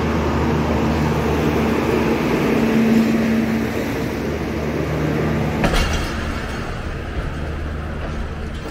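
Passenger coaches of a departing train rolling past, wheels running on the rails with a steady low hum. There is a sharp knock about six seconds in, and the sound then fades as the last coach moves away.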